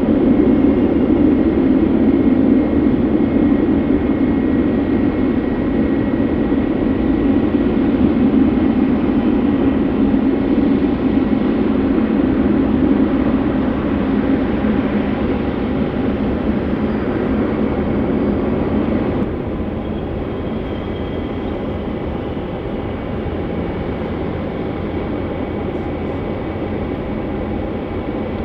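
Jet airliner engine noise: a loud, steady rumble that slowly fades, then drops suddenly to a lower, steady level about two-thirds of the way through.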